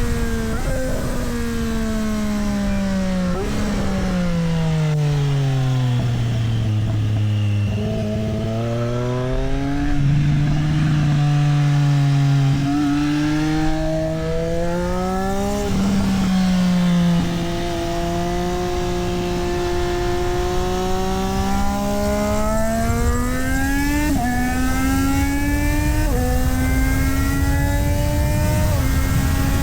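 Triumph Street Triple 765 RS's inline three-cylinder engine at track speed. It slows with downshifts until the pitch bottoms out about seven seconds in, then accelerates hard through the gears, the pitch climbing and dropping at each upshift. Near the end it downshifts again, the pitch jumping up twice, over a steady low rushing noise.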